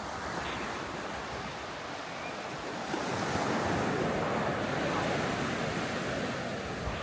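Surf washing onto a sandy beach, a wave swelling louder about three seconds in and slowly fading.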